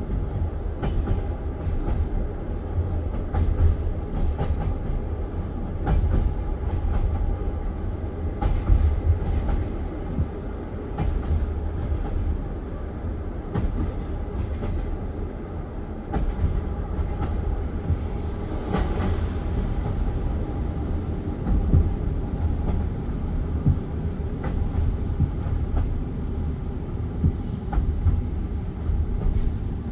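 Passenger train carriage running on the rails, heard from inside: a steady low rumble with scattered sharp clicks of the wheels over the track.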